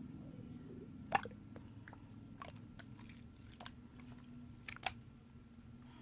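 Slime being squished and mixed by hand, giving scattered sharp clicks and pops, with two louder pops about a second in and near the end.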